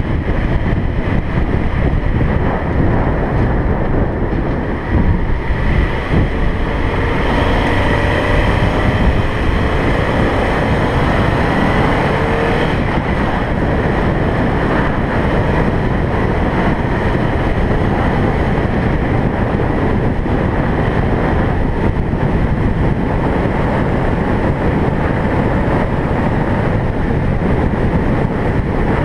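Steady road and wind noise from a car being driven. A fainter whine shifts in pitch for several seconds partway through.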